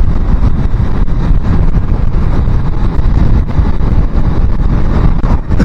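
Wind buffeting a helmet-mounted microphone while riding a small-capacity motorbike: a loud, steady, low rumble.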